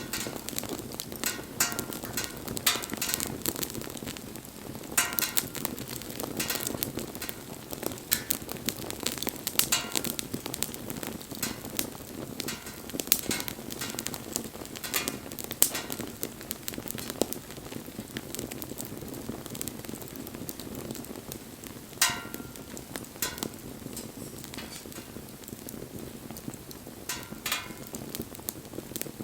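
Wood fire burning with a steady low rush of flame and irregular crackling, with sharp pops of burning wood scattered throughout.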